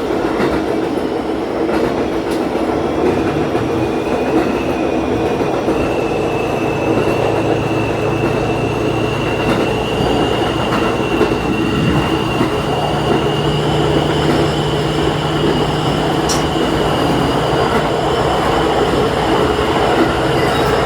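Diesel railcar running along the line, heard from inside at the front: a steady engine drone with rail and wheel noise. A thin, high wheel squeal starts about five seconds in and holds, and the engine note changes about halfway through.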